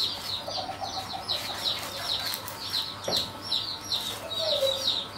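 Small bird chirping fast and repeatedly, about five short high chirps a second, with a couple of lower, longer bird calls mixed in: one soon after the start and a falling one near the end.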